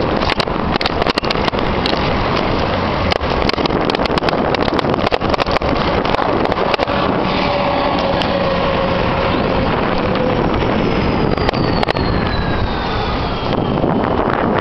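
Wind and road noise on the microphone of a moving bike, a steady loud rush with frequent rattling clicks in the first half. A faint falling whine passes in the second half.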